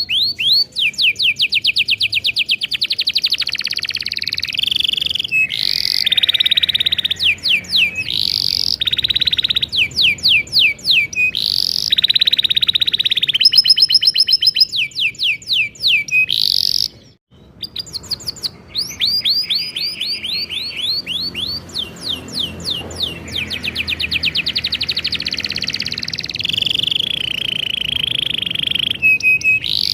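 Domestic canary singing a long, continuous song: rapid runs of down-slurred chirps alternating with buzzy rolled trills, with a brief pause about halfway through.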